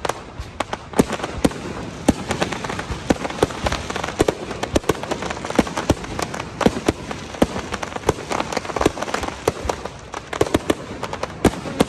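Fireworks display: a dense, irregular string of bangs and crackles, several a second, over a continuous crackling hiss.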